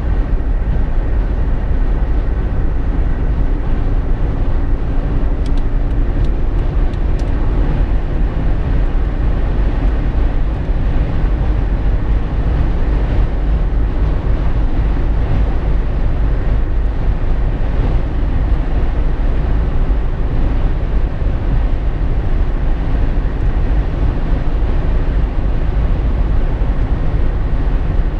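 Steady in-cabin driving noise in a Jeep Wrangler JK: a low, even rumble of engine, tyres and wind.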